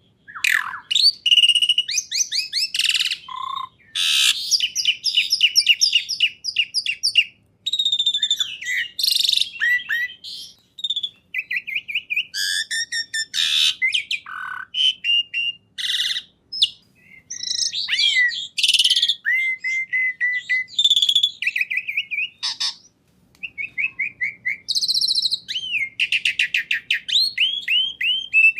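A songbird singing a long, varied song: rapid runs of repeated chirps, trills and clear whistled notes, broken by short pauses.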